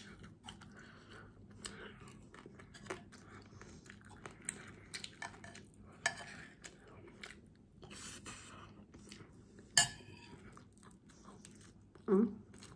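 Close-mouthed chewing and crunching of milkfish and rice, with scattered clicks of a fork against a bowl. A sharp clink just before ten seconds in is the loudest sound, and a brief vocal sound comes near the end.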